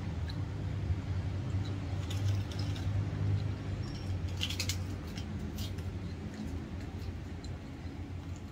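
Mouth sounds of someone eating by hand: chewing with wet clicks and lip smacks, most of them around the middle, over a steady low rumble.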